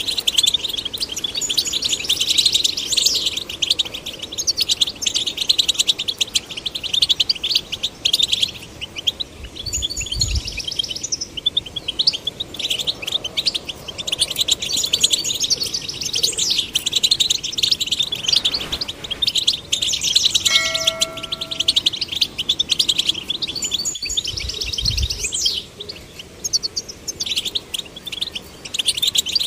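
European goldfinches singing: a dense, fast, continuous twittering of chirps and trills. Two short low thuds come at about ten and twenty-five seconds in, and a brief steady tone sounds a little after twenty seconds.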